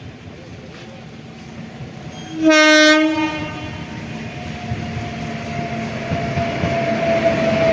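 A train locomotive's horn sounds one short blast about two and a half seconds in, then the rumble of the approaching train grows steadily louder.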